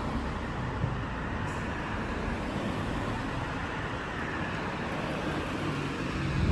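Steady urban outdoor background noise of road traffic.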